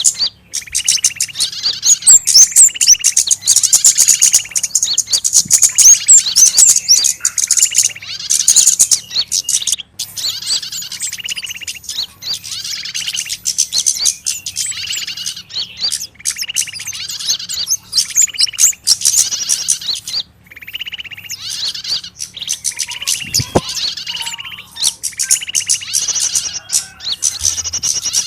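Bird-luring recording of agitated small birds: a dense, loud chorus of rapid harsh chirps and chatter over a call repeated about once a second, the kind of trapped-bird commotion played to draw small birds in.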